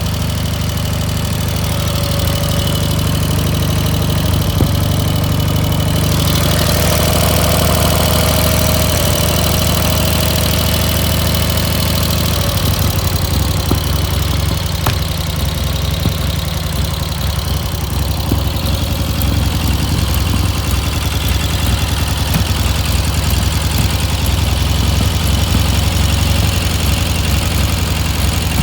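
Soviet K-750 motorcycle's flathead flat-twin engine idling steadily, its beat turning rougher and more uneven about twelve seconds in.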